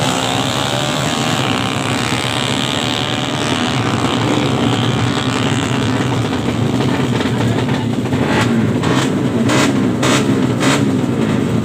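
Drag-bike motorcycle engine running at high revs, its pitch falling at the start and then wavering. Near the end comes a run of sharp cracks about twice a second.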